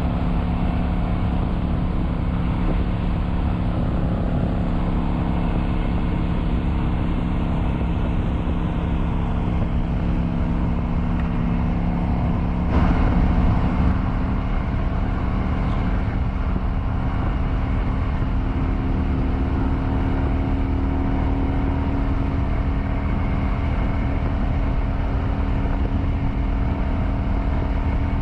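Kawasaki Vulcan 900's V-twin engine running steadily at road speed, with wind and road noise over it. About 13 seconds in there is a brief louder moment, and after it the engine note sits slightly higher.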